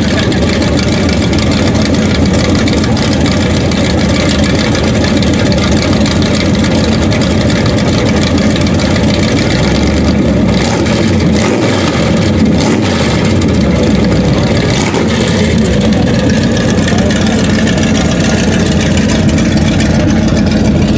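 Classic muscle car engine running loud through uncapped exhaust cutouts, idling roughly just after a hard start, with a few revs about halfway through.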